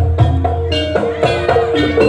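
Live jaranan accompaniment from a Javanese gamelan-style ensemble: tuned metal percussion struck in a quick pattern of ringing notes over drums and a steady low bass.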